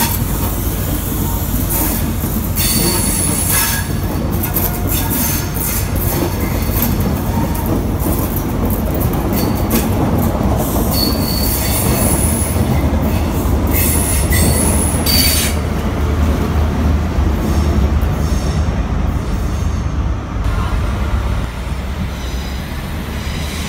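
Train coaches rolling past at a station, with a steady low rumble. The wheels click sharply and often over rail joints and points, and several brief high flange squeals come through the first two-thirds. The clicking then dies down to a smoother rumble.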